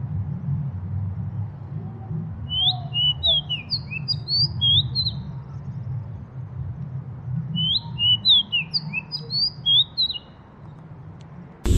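A small bird singing two quick bursts of high, chirping notes, a few seconds apart, over a steady low rumble.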